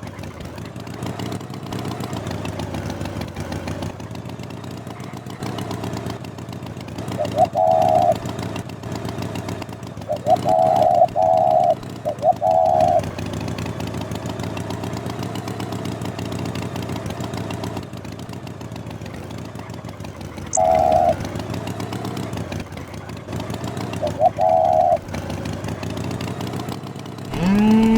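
Engine running steadily, with a few short, loud, wavering tones like honks breaking in now and then.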